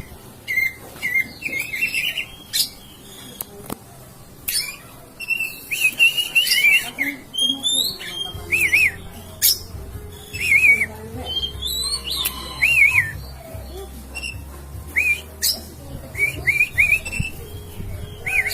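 Songbird singing a varied song of quick arched whistles and chattering phrases, repeated in short bursts and broken by sharp clicks, played to provoke a kacer into answering.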